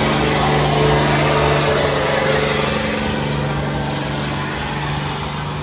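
A pulling truck or tractor's engine running loud and steady at high revs under load, easing off slightly in loudness after about three seconds.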